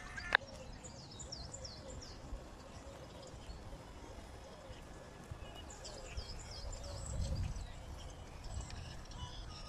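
Small birds chirping outdoors: two spells of quick, high, downward-sweeping notes in rapid series. A single sharp click comes just after the start, and a low rumble swells briefly about seven seconds in.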